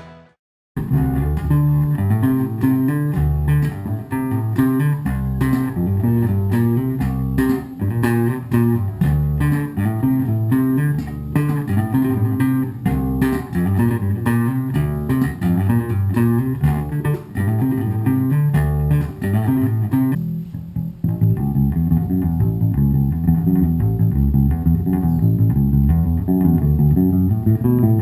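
Electric bass guitar playing a busy riff of sharply plucked notes. It starts after a brief silence.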